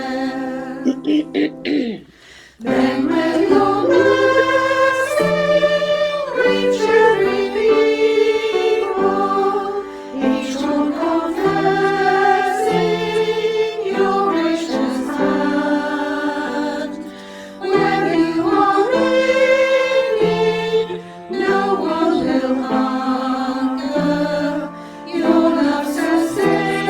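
Choir singing a hymn in several parts, sung phrase by phrase with short breaks between lines, played from a shared recording.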